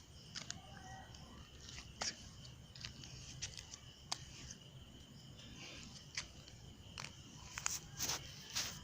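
Crickets chirring steadily, with scattered faint clicks and taps.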